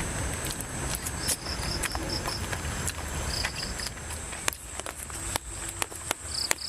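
Forest insects calling: a steady high trill with short runs of rapid chirps every second or two. Scattered sharp clicks and knocks are heard over a low steady rumble.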